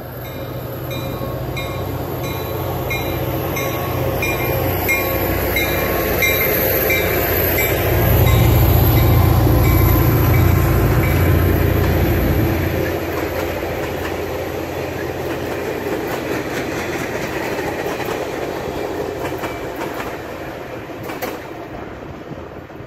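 A Caltrain diesel locomotive hauling bilevel passenger cars passes on the far track. The engine's rumble is loudest about eight to twelve seconds in, then the clatter of the rolling cars fades as the train moves away. A bell rings steadily about twice a second through the first eight seconds or so.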